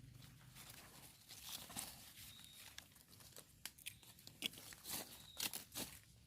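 Light rustling and crackling of leaf litter and twigs while wild mushrooms are picked: irregular soft snaps and crunches, busier in the second half.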